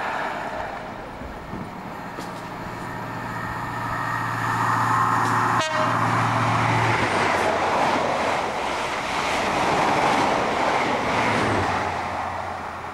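High Speed Train (InterCity 125) power cars with MTU diesel engines: first the steady running note of the engine as the train approaches, then, after an abrupt change about halfway, the loud rush of the train passing through at speed, easing off near the end.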